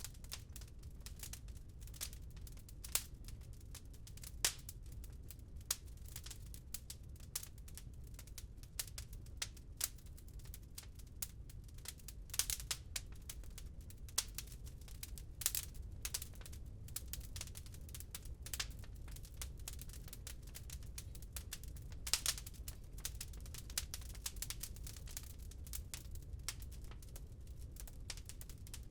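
Wood fire in a fireplace crackling, with irregular sharp pops and snaps, a few louder ones scattered through, over a steady low rumble.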